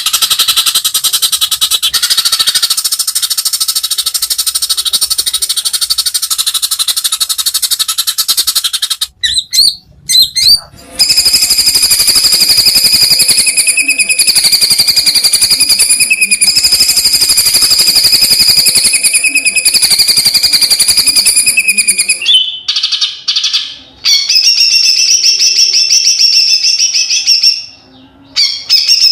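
Bornean white-rumped shama (murai batu) singing long, rapid rolling trills, the rattling 'trotol' song, each held at one pitch for several seconds. Short breaks come after about nine seconds, around twenty-two seconds and near the end, and each new stretch is at a different pitch.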